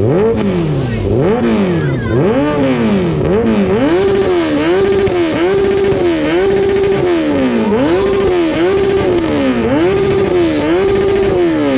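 Motorcycle engine with a loud exhaust being revved hard: quick throttle blips at first, then held near the top of its revs in repeated surges that keep hitting the same ceiling, before the revs drop away near the end.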